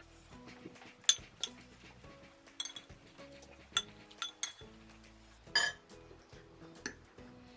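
Cutlery clinking against a plate about seven times, sharp separate clicks with the loudest a second in, over quiet background music.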